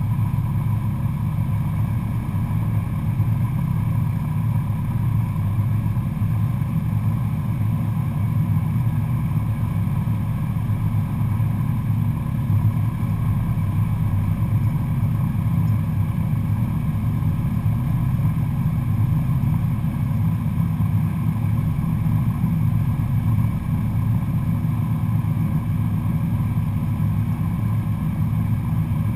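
Cessna 172SP Skyhawk's four-cylinder Lycoming piston engine and propeller droning steadily, with no change in power.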